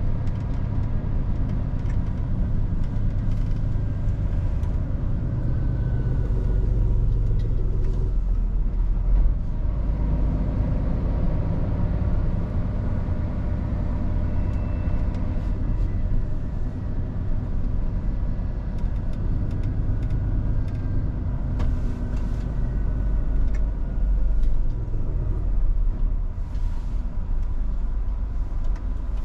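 Scania R450 truck driving along: its six-cylinder diesel engine and road noise make a steady low rumble. The engine note shifts in pitch about eight seconds in and again near the end, as engine speed changes.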